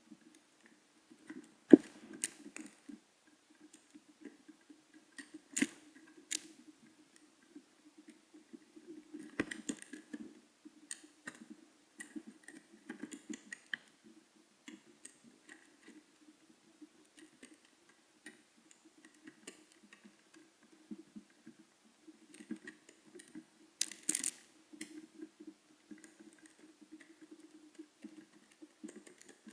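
Pigeons pecking and scuffling at food: irregular sharp clicks and taps, with a few louder flurries, around 2, 6, 10 and 24 seconds in. A low steady hum runs underneath throughout.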